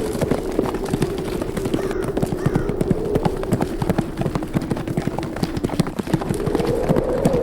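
Horses' hooves pounding in quick, irregular beats as they run, over a howling wind whose pitch slowly sinks and then rises again.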